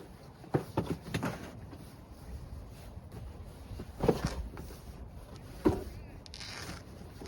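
A handful of sharp knocks and clunks, about five in all, with a brief rustle about six seconds in.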